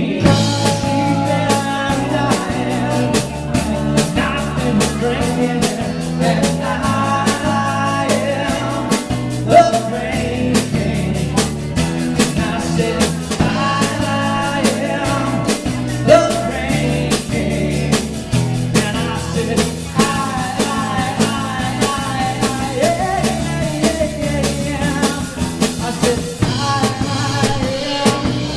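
Live rock band playing with drum kit and sung vocals.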